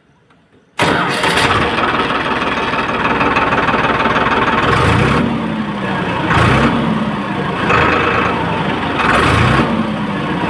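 Farmtrac tractor's diesel engine running, coming in abruptly about a second in, then revved up and let back down three times during a sound check.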